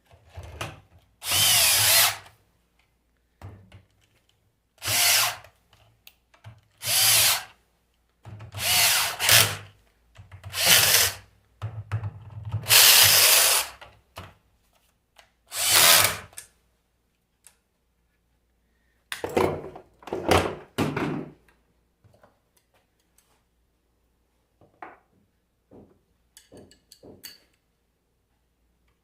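Handheld power drill or driver run in short bursts of a second or two, about eight of them in the first half, then two more about two-thirds through; a few light clicks near the end.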